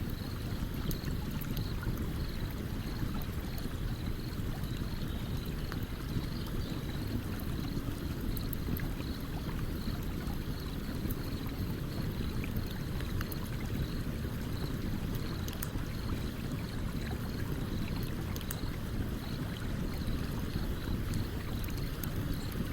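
Stream flowing steadily, with a campfire's sharp crackles and pops scattered through it.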